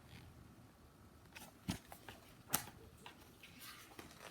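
Faint handling of a picture book's pages, probably a page being turned, with a few soft clicks and rustles and two sharper clicks about a second apart near the middle.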